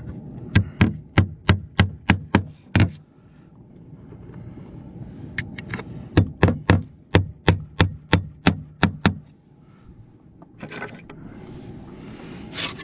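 A hammer driving nails with two runs of quick, even blows, about three a second: first about eight strikes, then after a pause about ten more, with a couple of lone knocks near the end. The nails are fixing fibre-cement artificial slates.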